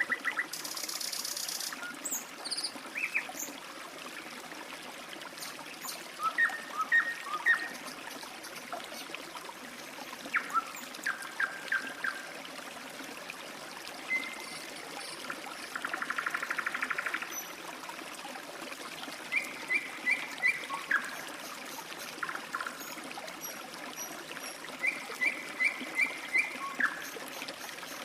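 Water trickling steadily, like a small stream, with songbirds calling over it. The calls are series of short chirps, a buzzy trill about halfway through and another at the end, and a brief high shrill note near the start.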